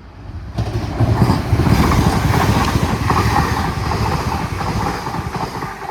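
Hitachi Class 802 express train passing through the station without stopping. The rush of wheels and air starts suddenly about half a second in, holds loud, and eases off near the end.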